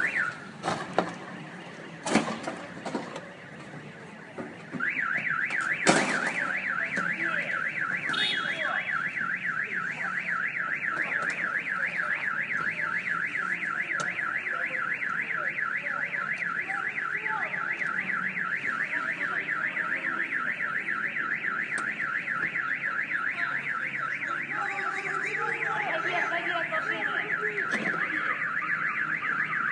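Car alarm siren warbling rapidly up and down without pause, starting about five seconds in after a few knocks. A sharp bang comes a second after the alarm begins.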